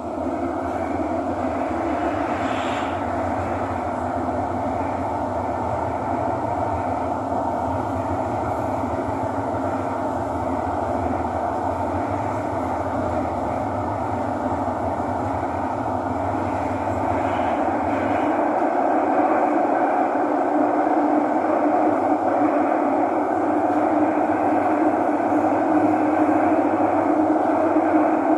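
Inside a Thomson-East Coast Line Kawasaki-CRRC T251 metro train running between stations: steady running noise of the moving train, growing louder about two-thirds of the way in.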